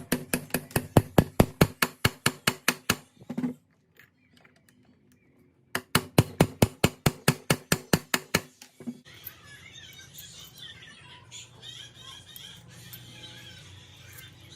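Bosch GBH 2-22E rotary hammer running in hammer mode in two short bursts, each a fast, even train of blows, about seven a second, over the motor's hum. After the second burst comes a fainter, irregular clatter.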